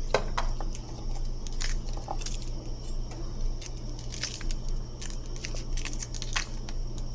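Scattered short clicks and crunching sounds of food and utensils being handled in a kitchen, over a steady low hum.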